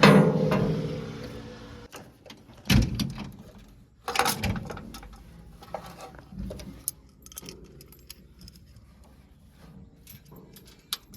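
JCB 3DX backhoe loader at work loading a tractor trolley: a loud engine surge that dies away over about two seconds, then two heavy metallic clanks a second and a half apart, then lighter rattling and clicks.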